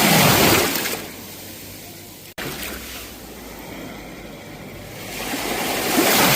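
Sea waves breaking on the shore: one wave crashes at the start and another builds and breaks near the end, with quieter surf washing between. The sound cuts out for an instant about two and a half seconds in.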